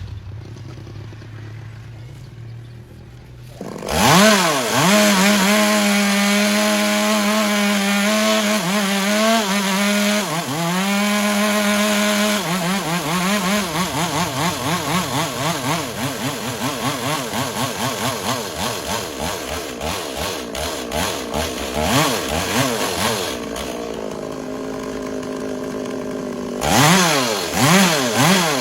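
Chainsaw revving up sharply about four seconds in and running at high revs, cutting wood. From about a third of the way through, its pitch wavers up and down about twice a second. Near the end it settles to a lower, steadier speed, then revs hard again.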